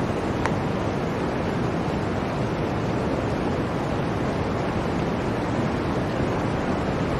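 Blizzard wind blowing steadily, a dense, even rushing hiss with a deep rumble underneath.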